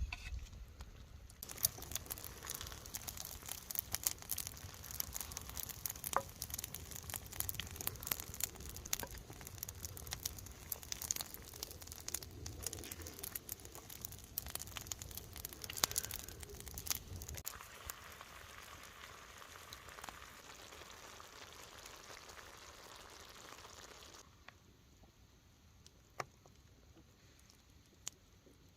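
Food sizzling and crackling in a cast-iron skillet over a campfire, with many sharp pops. Later it settles into a steadier hiss that drops away about 24 seconds in.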